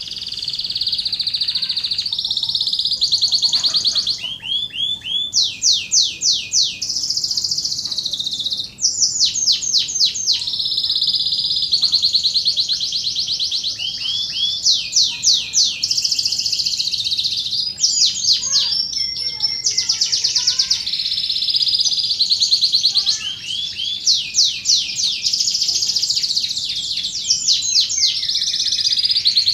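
Domestic canary singing a long, unbroken song of fast, rolling trills, each made of rapidly repeated high sweeping notes, with the phrases changing every second or two.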